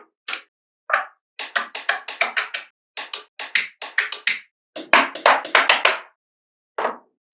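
Small magnetic balls clicking sharply into place against each other, a few single snaps and then quick runs of many clicks, several a second.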